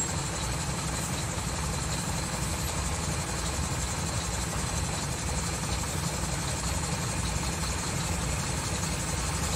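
Vehicle engine idling steadily, heard from inside the cabin while stopped in traffic.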